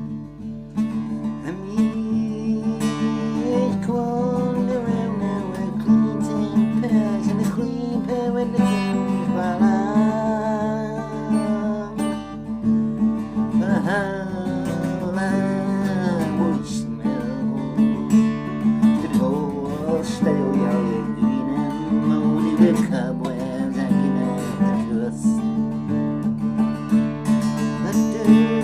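Acoustic guitar strummed steadily, with a voice singing a wandering melody line over it through the middle.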